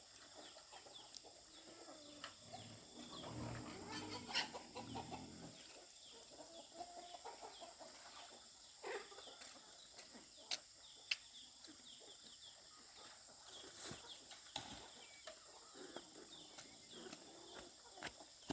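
Faint clucking of chickens, with scattered light clicks and knocks.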